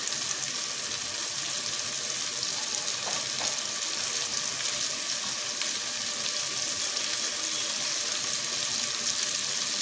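Butter frying in a small pan with sliced onion, cumin seeds and dried red chillies for a tadka (tempering). It makes a steady sizzle with small pops throughout.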